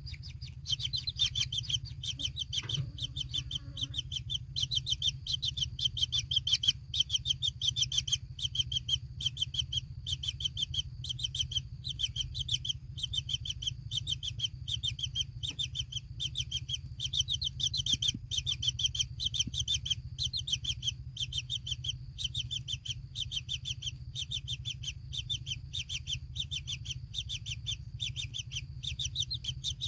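Bird chirping: short, high calls repeated rapidly and evenly, about three a second, without a break, over a low steady hum.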